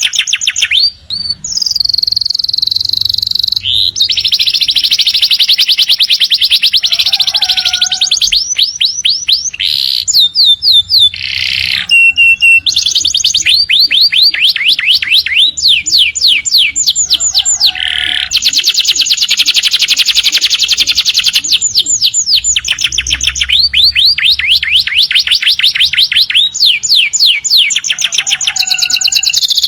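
Canary singing a long, continuous song of fast trills, rapid repeated high notes in runs that change speed and pitch every few seconds, with only brief breaks between them.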